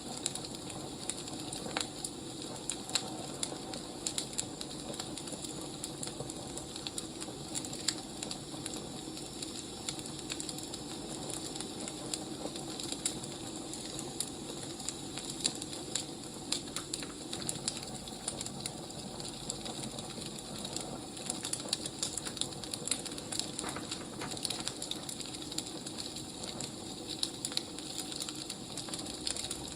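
Firewood burning: a steady low hiss of the fire with frequent irregular crackles and sharp pops.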